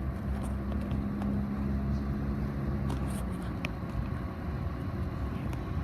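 Diesel-electric locomotives of an approaching freight train, led by an NR class loco, making a steady low engine rumble with a held hum that fades about three seconds in.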